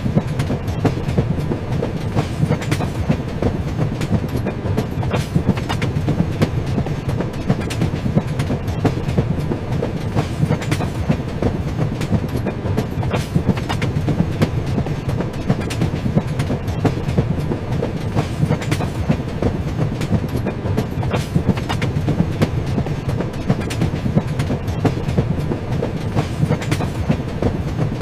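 A train running along the track: a steady low rumble with frequent clicks and clacks from the wheels on the rails.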